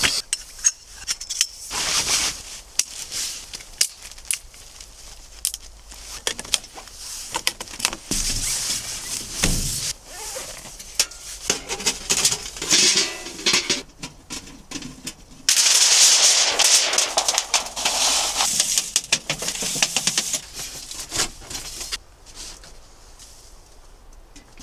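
Rustling, clicks and clatter of camping gear being handled and set out inside a tent, with a louder stretch of rustling about two-thirds of the way through.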